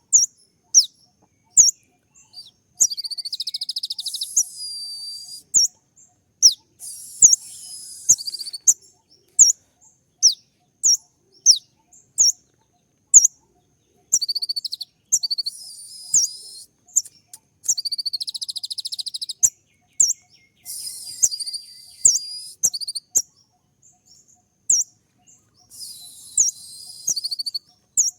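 Sunbird (kolibri ninja) song: sharp, high, falling chips about once a second, alternating with fast, dense twittering phrases of two to three seconds, the sharp 'shooting' calls used as a masteran to make kept birds answer.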